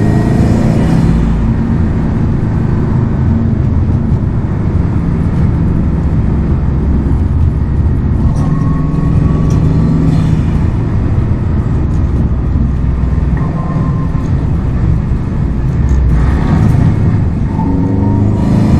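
Subaru WRX STI's turbocharged flat-four engine and exhaust under way, the engine note rising and falling with the throttle: an acceleration near the start, steadier running through the middle, and another rise in pitch near the end.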